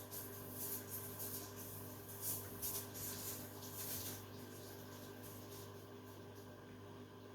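Beko 10 kg washing machine mid-wash: the drum tumbles bedding and towels with irregular swishing, over a steady motor hum. The swishing stops about four seconds in as the drum pauses, leaving only the hum.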